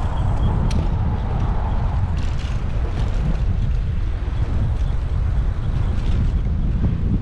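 Wind and road rumble on the microphone of an action camera mounted on a moving bicycle, a steady low rush, with a few light clicks and passing traffic sounds.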